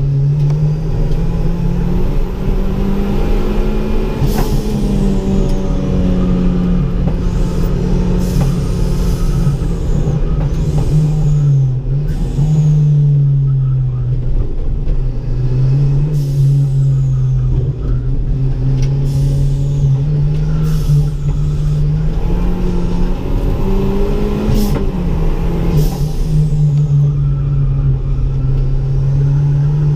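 Turbocharged Ford Ka engine under track driving, its pitch rising and falling in long swells as it pulls and eases off. Short sharp hisses cut in now and then.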